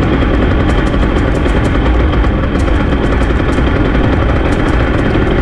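Small pit-bike engine running steadily as it is ridden, with heavy wind rumble on the microphone.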